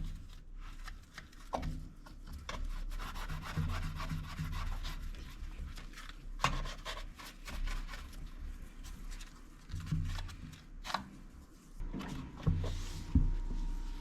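Toothbrush scrubbing baking soda on a toaster oven's front, a rough rubbing-scraping with short strokes, with a few light knocks.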